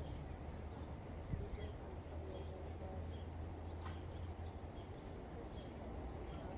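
Outdoor ambience: birds chirping, with a series of short, high chirps in the second half, over a steady low rumble.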